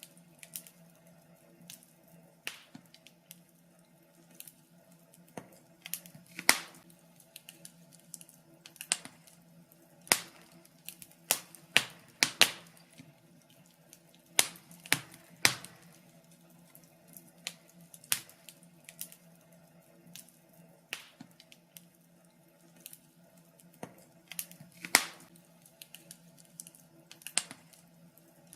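Wood fire crackling: irregular sharp pops and snaps, a handful of them loud cracks, over a faint steady low hum.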